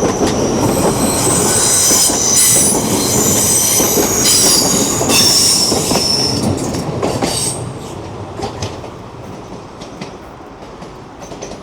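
Class 802 bi-mode passenger train passing on a curve, its wheels giving a high-pitched flange squeal over the rumble of the train. From about eight seconds in it fades away, with a few faint clicks from the wheels on the rails.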